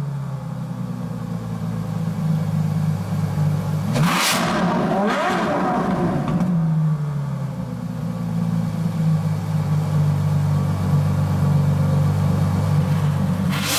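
Ferrari LaFerrari's V12 idling steadily, with a sharp throttle blip about four seconds in that jumps up in pitch and settles back down over a couple of seconds, then another rev starting right at the end.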